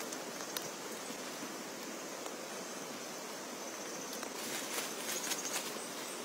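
Steady rain hissing, with scattered sharp ticks of drops striking close by that come thicker about four to five seconds in.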